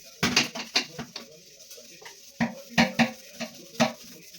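Hard kitchenware clattering and knocking together in a string of sharp knocks, a cluster at the start and another after about two seconds, one of them ringing briefly.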